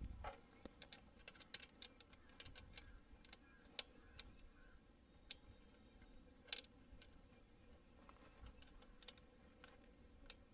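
Faint, scattered metallic clicks and taps of a spanner on the engine's oil drain bolt as it is refitted, with a few sharper clicks spaced seconds apart over a quiet background.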